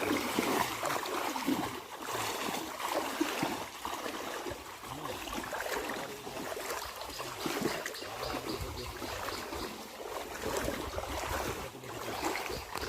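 Steady rushing and splashing of moving water.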